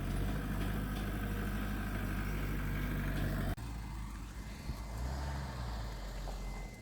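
Heavy diesel engine of earthmoving machinery running steadily; about halfway through the sound changes abruptly to a lower engine note, which swells briefly a little later.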